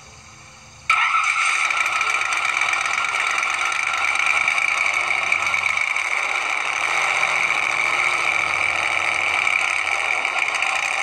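Supercharged drag-car engine heard through a phone's small speaker. It comes in abruptly about a second in, then runs loud and steady, thin and tinny.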